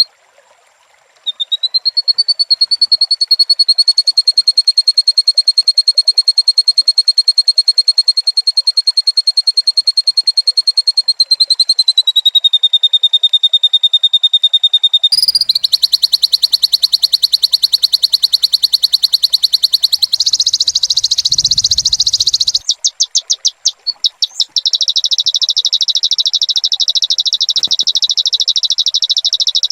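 A high-pitched, very rapid, even trill, held for long stretches. It drops slightly in pitch about twelve seconds in and comes back louder a few seconds later, with short breaks and stutters near the end.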